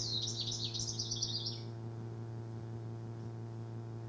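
House wren song played back over a loudspeaker: a fast run of many short high notes that ends a little under two seconds in, over a steady electrical hum.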